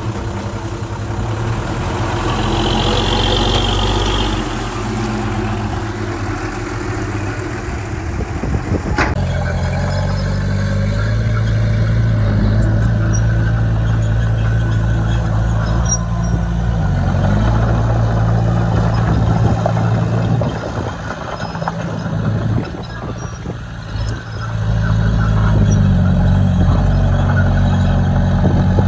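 Diesel engine of heavy construction machinery running steadily, its note shifting a few times, with a sharp click about nine seconds in.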